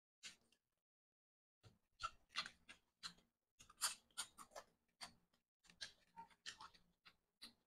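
Close-up eating sounds of a man chewing a piece of chicken afritada. Irregular clusters of short smacks and clicks come with silent gaps between them.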